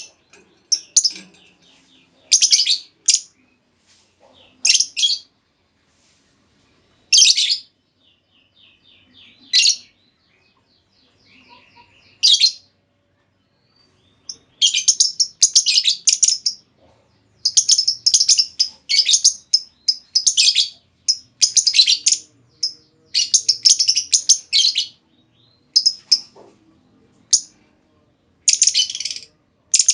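Female lovebird calling: short, shrill, high chirps in separate bursts with pauses, breaking about halfway through into a nearly unbroken run of rapid chattering calls.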